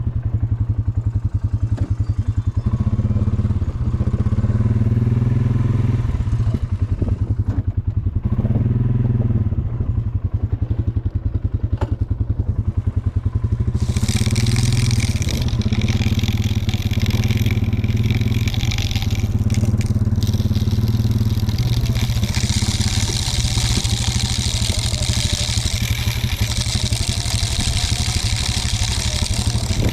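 Quad (ATV) engine running steadily with a fast, even pulse. About halfway through, a loud hiss joins it.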